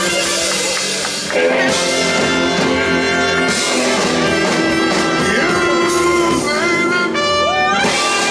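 Live blues band playing, with the horn section (trumpet and saxophone) holding long notes and sliding between them over the band.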